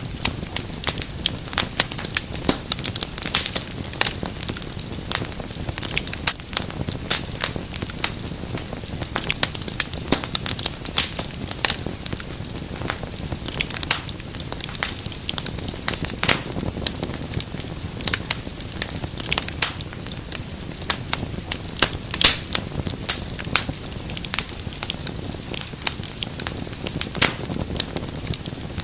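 Wood fire crackling steadily: many irregular sharp snaps and pops over a low, even rumble of burning.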